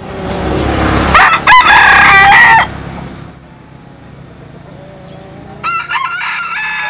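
Bantam rooster crowing twice: a loud crow about a second in, then a second, quieter crow near the end.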